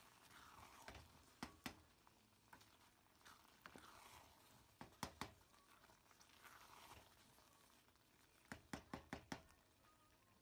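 Faint wet scraping of a wooden spoon stirring thick lentil stew in a metal pot, with light knocks of the spoon against the pot: two pairs of knocks, then a quick run of about five later on.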